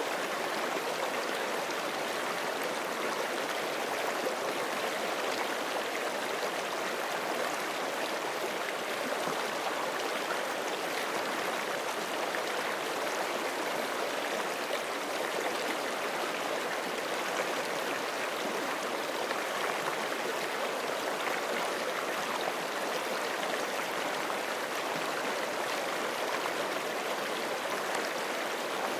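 Forest creek flowing over rocks: a steady, unbroken rush and gurgle of running water.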